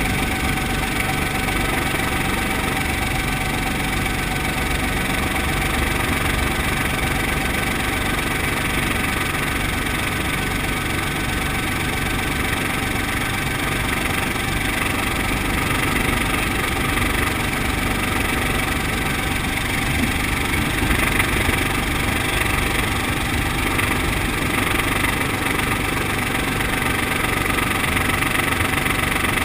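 Brantly B2B helicopter's four-cylinder Lycoming piston engine and rotors running steadily at an even pitch.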